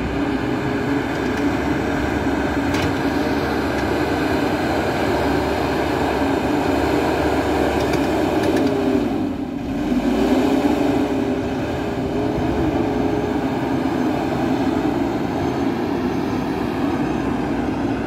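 MST 642S backhoe loader's diesel engine running steadily under working load, its pitch sagging briefly about nine seconds in and then picking back up.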